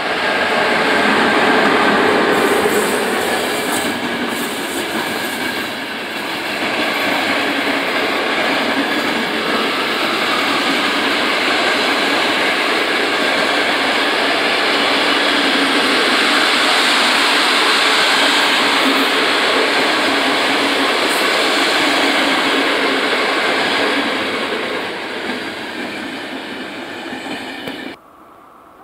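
Passenger train hauled by an electric locomotive passing close by: a steady rolling noise of the wheels on the rails that eases off over the last few seconds as the carriages go by, then cuts off abruptly.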